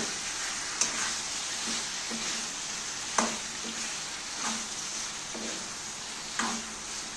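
Chicken pieces for a curry sizzling as they fry in a steel pan, a steady hiss. A metal spoon clinks sharply a few times against the pan as the meat is stirred and spice is added.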